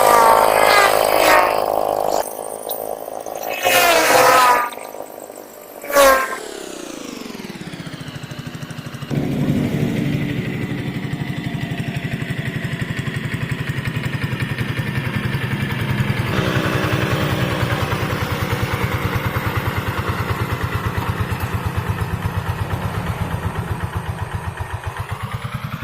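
Hand tractor's diesel engine working: uneven loud swells at first and a falling pitch about six seconds in, then a steady, rapid chugging beat for the rest of the time.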